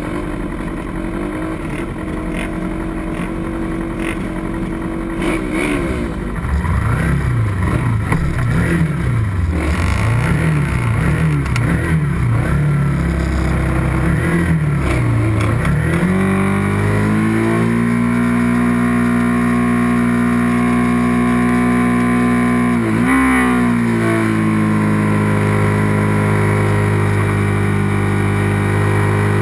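Small racing motorcycle engine running hard: steady at first, then revving up and down repeatedly as it changes speed, then held at a steady high pitch for the second half, with one brief dip and recovery a little before the end.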